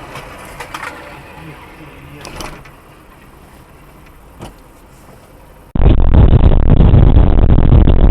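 Car running on the road as heard by a dash cam, a steady noise with a few short clicks, then about six seconds in an abrupt cut to a much louder, muffled rumbling vehicle noise.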